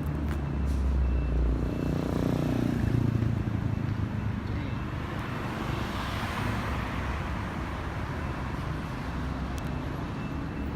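A car engine running as a car drives by, loudest in the first few seconds and then easing into a steady rumble of traffic.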